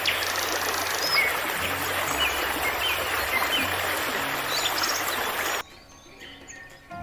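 Steady rushing water with small birds chirping and calling over it. The water cuts off abruptly about five and a half seconds in, leaving fainter bird calls over a low steady hum.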